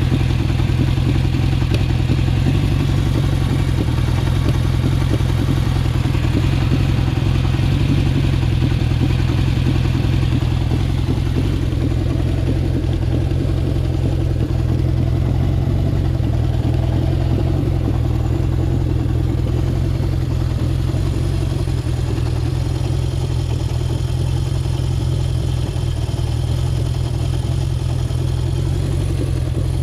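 Honda CB750 Four's air-cooled inline-four engine running at a steady, even speed, with no large revs.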